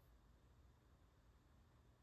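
Near silence: only a faint, steady noise floor with a low hum.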